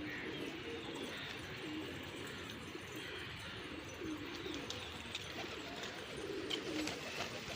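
Domestic pigeons cooing: low, repeated coos, several birds overlapping.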